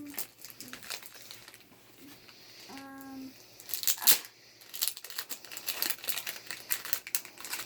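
Plastic packaging crinkling and tearing as it is worked off a speed cube, in quick irregular crackles that get denser and louder from about three and a half seconds in.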